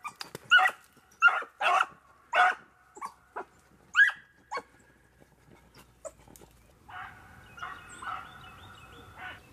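Rabbit-hunting hounds giving tongue on a rabbit's trail: a run of sharp barks about two a second, then a longer, drawn-out bay near the end.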